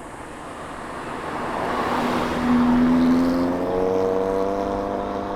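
A car's engine accelerates past, growing louder over the first two seconds. It settles into a strong, steady engine note that rises slightly in pitch.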